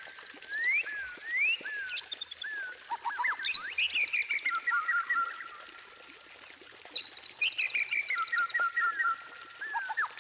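White-rumped shama singing a varied song of clear rising and falling whistles and rapid high chattering trills, pausing for about a second and a half midway before another burst of song.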